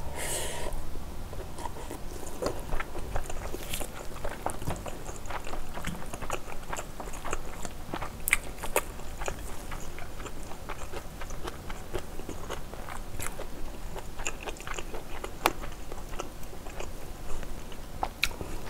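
Close-miked chewing and wet mouth sounds of a person eating spicy braised pork kimchi stew with glass noodles, with many short sharp clicks scattered throughout.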